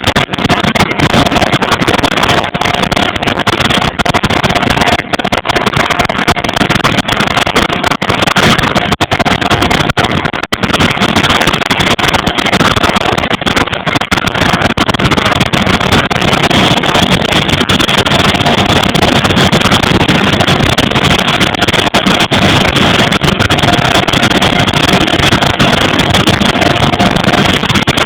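Vickers Vanguard's Rolls-Royce Tyne turboprop engines running steadily and loudly, with a faint steady whine over the noise.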